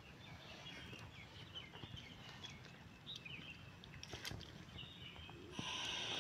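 Small birds chirping repeatedly in short notes over a faint outdoor hush, with a few soft clicks. Near the end a louder hiss comes in suddenly.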